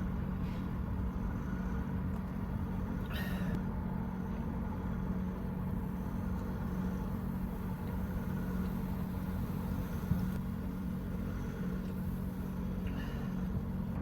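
A heavy truck's diesel engine running steadily with a low, even hum. Two brief hissy sounds cut in, about three seconds in and again near the end.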